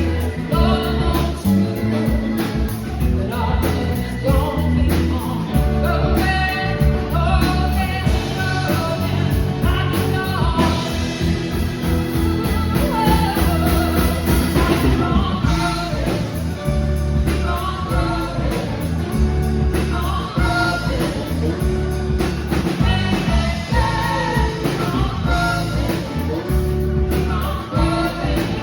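Live rock band playing, with a singer over a steady bass and drum groove.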